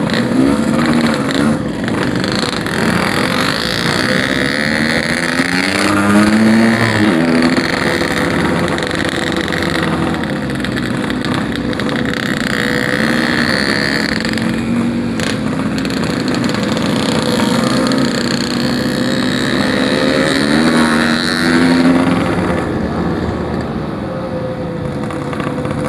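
Yamaha RX-King's two-stroke single-cylinder engine, bored out to 150 cc, pulling under way on the road. The pitch rises in several sweeps as it accelerates through the gears, with a steady rush of wind and road noise underneath.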